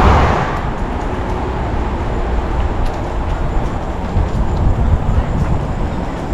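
Wind rumbling on the microphone of a moving bicycle, with a few faint clicks and rattles.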